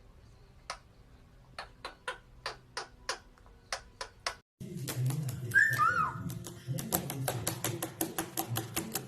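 A run of sharp single clicks or taps, about three a second, then a sudden cut to a busier clatter of clicks with two short rising-and-falling chirps from a pet parrot.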